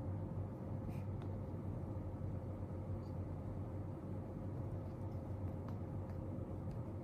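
Steady low room hum with a faint constant tone. A few faint, light clicks come about a second in and again near the end.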